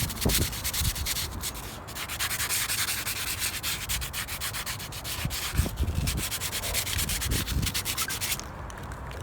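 Hand sanding on a mini bike part: rapid, rhythmic back-and-forth scraping strokes that stop about eight seconds in.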